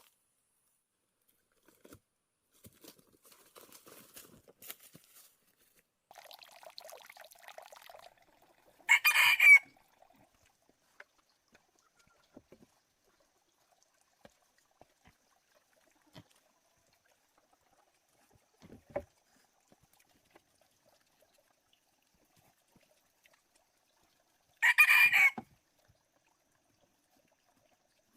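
A fowl calling twice, two short loud calls about fifteen seconds apart, with faint rustling before the first call.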